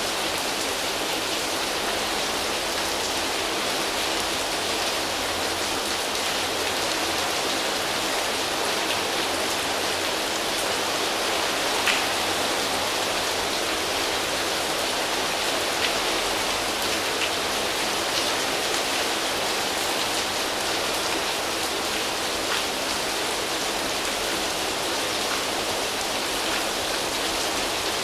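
Steady rain falling on leaves: an even hiss of drops, with now and then a single louder drop.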